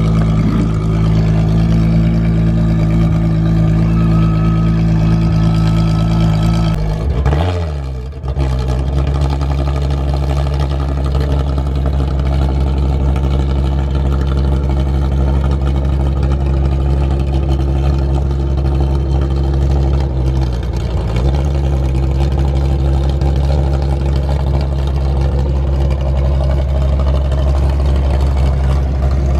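A car engine idling steadily, its pitch dipping sharply and briefly about seven seconds in before settling back to a steady idle.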